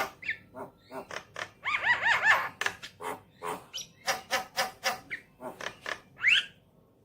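Javan myna singing: a fast run of harsh clicks and chattering calls, with a quick series of arched whistled notes about two seconds in and a rising whistle near the end. It stops just before the end.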